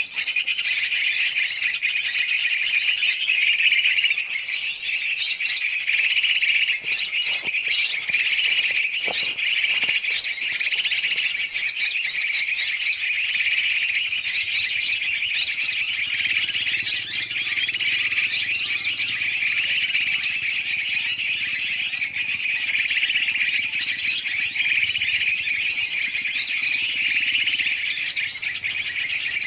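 Bird-lure recording: a dense, unbroken chorus of many birds chirping and calling over one another, with trucukan (yellow-vented bulbul) calls mixed among them.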